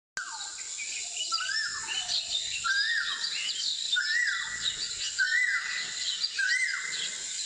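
Bird calls repeating at an even pace, about one every second and a third, each a quick phrase that rises and then falls, over a steady high-pitched buzz.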